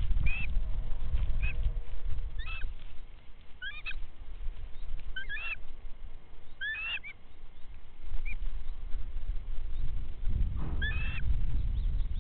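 Birds calling: short calls that rise and fall in pitch, repeated every one to two seconds with a pause near the end. A low rumble underneath fades for a few seconds and then comes back.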